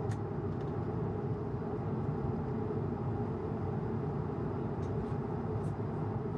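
Steady low rumble of an Airbus A220 cabin in flight: engine and airflow noise, with a few faint light clicks.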